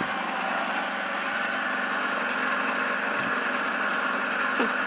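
Milling machine running and cutting metal, a steady machining whir.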